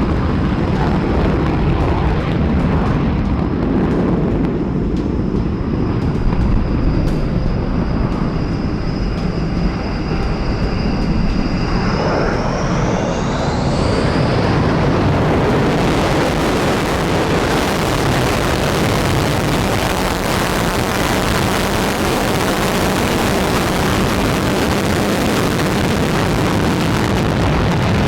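B-1 Lancer bomber's turbofan jet engines running, a steady low roar under a high turbine whine. About twelve seconds in, the whine climbs in pitch and the sound opens into a broad rushing roar that holds to the end.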